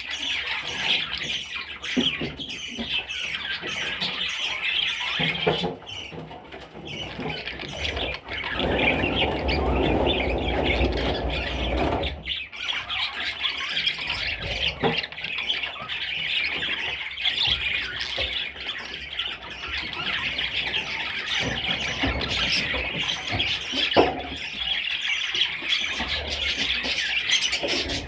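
Budgerigars chattering and squawking without a break, with a louder, lower-pitched noise for a few seconds near the middle.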